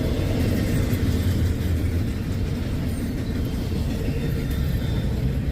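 Freight train rolling past at close range: a steady low rumble of wheels on rail, with a faint steady tone above it.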